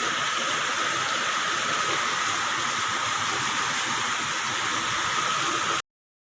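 Heavy rain pouring down in a steady, loud hiss, cutting off abruptly near the end.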